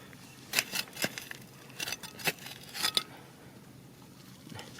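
A handful of sharp, irregular clicks and scrapes in the first three seconds, followed by a quieter stretch.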